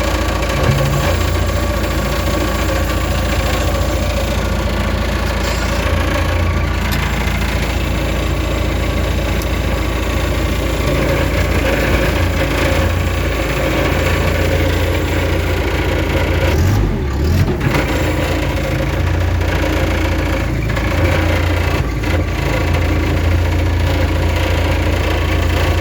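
Engine of a 1995 Daewoo 5-ton forklift, newly replaced, running steadily at idle, with a brief change in its note about two-thirds of the way through.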